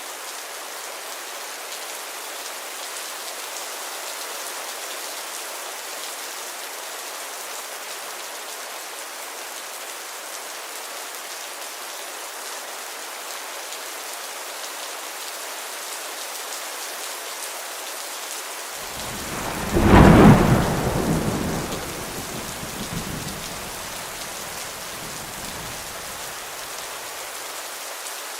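Heavy rain falling steadily. About two-thirds of the way in, a thunderclap breaks sharply, then rumbles away over several seconds.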